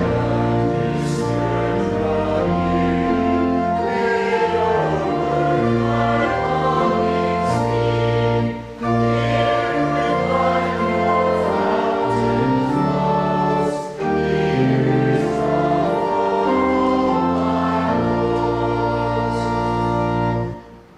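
Group of voices singing a short hymn in phrases over sustained instrumental chords, stopping just before the end.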